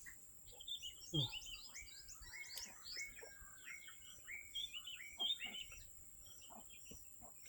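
Small birds chirping and twittering in quick, overlapping calls, fairly faint.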